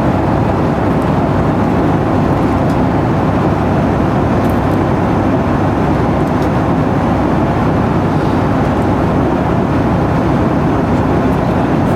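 Steady cabin noise of a Boeing 757-200 airliner in flight: an even, loud rush of engine and airflow noise.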